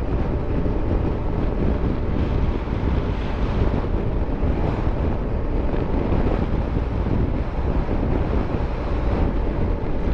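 Steady wind buffeting the microphone over the low running noise of a motorcycle under way.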